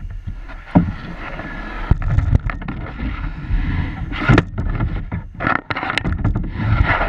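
Knocks and scrapes against a kayak hull as it is handled, with bursts of rushing noise and many sharp clicks throughout.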